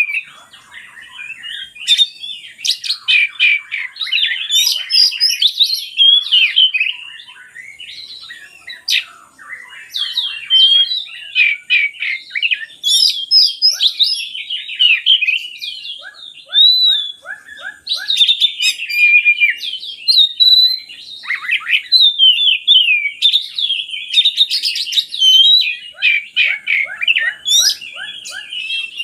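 Oriental magpie-robin (kacer) singing a long, varied song of rapid chirps and whistles. Twice it breaks into a short run of quick, evenly spaced lower notes.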